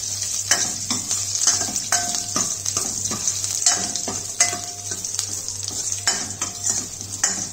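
Green chillies, dried red chillies, garlic, ginger and mustard seeds sizzling in hot oil in a stainless steel kadai, the tempering for the dish. A steel ladle stirs them, scraping and clinking against the pan every half second or so.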